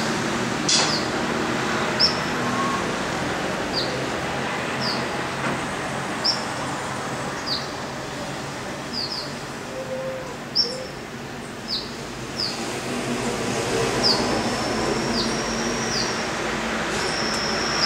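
Birds calling with short, high, falling chirps, roughly one a second, and a couple of longer, steady high whistles near the end, over a constant background hum of city traffic.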